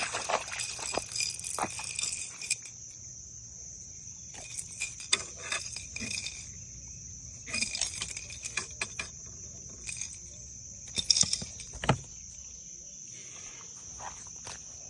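Insects trilling steadily in a high, continuous chorus, broken by scattered clicks and short clattering rattles, the loudest a little after the middle.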